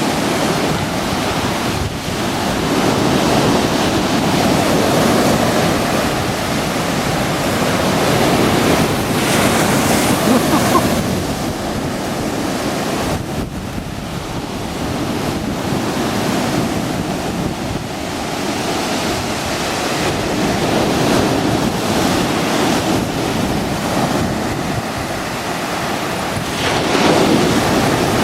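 Rough sea surf: big waves breaking and washing up the shore in a continuous rush that swells and ebbs every few seconds as each wave comes in.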